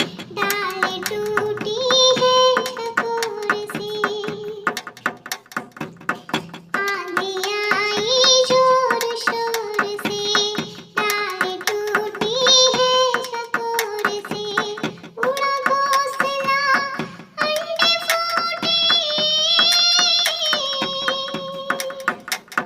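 Child's voice singing a Hindi children's poem to a simple tune in phrases with held notes, with short sharp clicks throughout.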